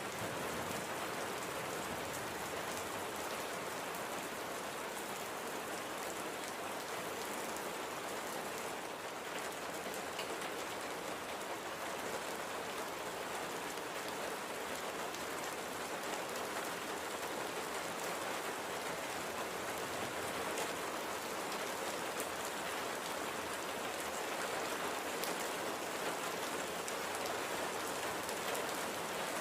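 Light, steady rain falling on a surface: an even hiss with many fine drop ticks.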